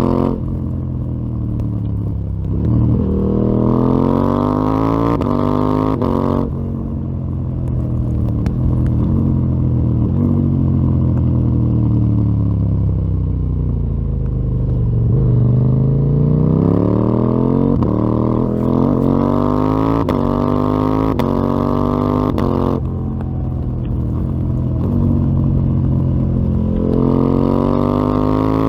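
KTM 890 Duke R's parallel-twin engine breathing through a full Akrapovic exhaust system, heard while riding. It revs up hard, the throttle snaps shut about six seconds in, and the revs wind down slowly. It pulls up through the revs again until it backs off once more, then picks up near the end.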